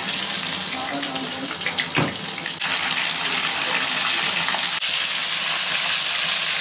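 Raw chicken pieces sizzling as they drop into hot oil in a kadhai: a steady frying hiss that grows louder about two and a half seconds in as more pieces go in.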